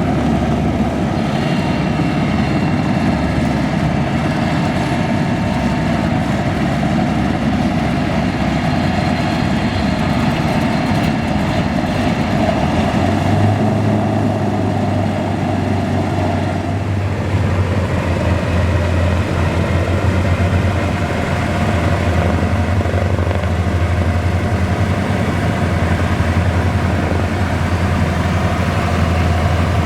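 Lockheed P-38 Lightning's twin Allison V-12 engines idling on the ground, a steady drone; about halfway through a deep steady hum grows stronger.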